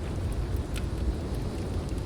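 Heavy rain over a steady low rumble, with a few sharp crackles from a wood fire.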